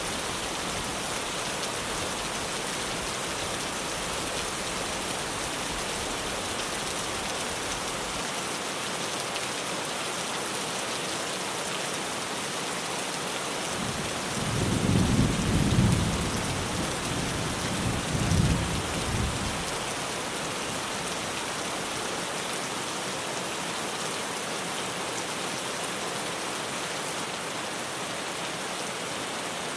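Heavy rain drumming steadily on a tin roof as an even hiss. About halfway through, a rumble of thunder rolls in for several seconds, swelling twice before it fades.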